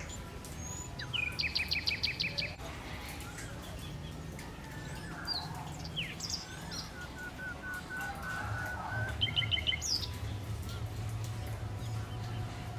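Several wild birds singing and chirping: a fast trill of repeated high notes a little after a second in, a shorter trill near nine seconds, and a run of lower evenly spaced notes in between. A steady low rumble sits underneath.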